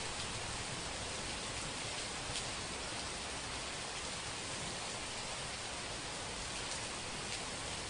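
Steady rain, a dense even hiss with a few faint separate drop ticks.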